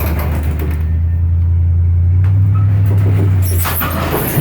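An all-wheel-drive car's engine pulls under load, towing a refrigerator on a dolly up a ramp by a chain on its hitch ball. There is a steady low rumble that eases off about three and a half seconds in as the pull ends.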